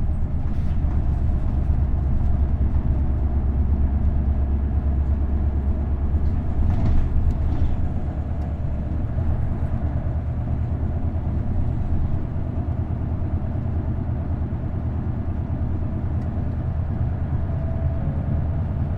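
Isuzu Erga city bus with a V8 diesel engine and five-speed manual gearbox, running on the road with a steady deep engine drone. The engine sound eases a little about eight seconds in.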